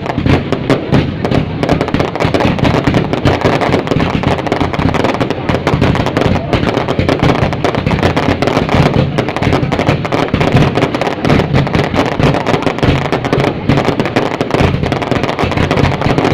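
Fireworks going off continuously: many bangs and crackles overlapping, several a second, with no pause.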